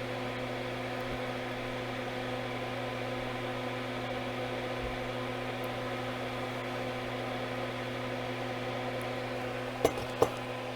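Steady electrical hum with an even whir, like a small fan or motor running, with two small clicks near the end.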